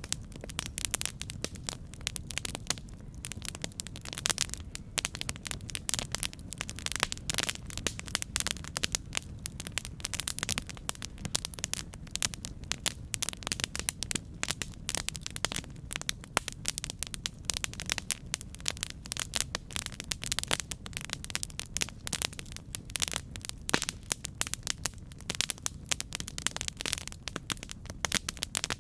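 Campfire burning, with dense irregular crackling and popping of wood over a steady low rumble of the flames.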